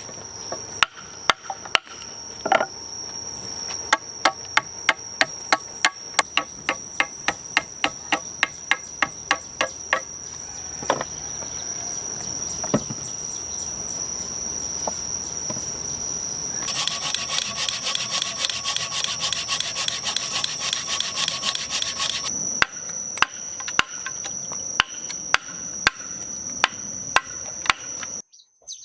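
Repeated knocking of a tool striking wood, about two to three blows a second, over a steady high insect trill. About two-thirds of the way through, a faster, ringing tapping runs for about five seconds before the slower blows resume.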